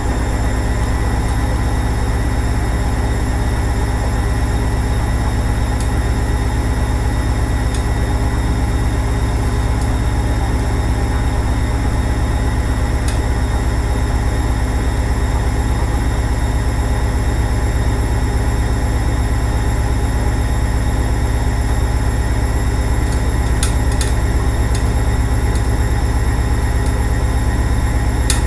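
Hoover Ecologic 800 automatic washing machine running, a steady low hum and whir from its motor and turning drum, growing slightly louder near the end.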